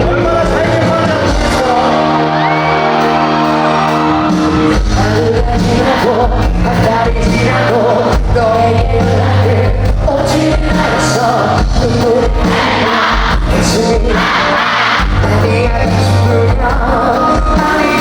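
Loud live rock band music in a large hall: held chords open, then drums and bass come in about four seconds in and drive a steady beat.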